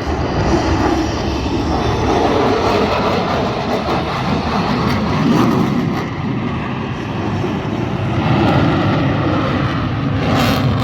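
Jet noise from an F-22 Raptor's two afterburning turbofan engines, a loud continuous rumble that swells about five seconds in and again near the end.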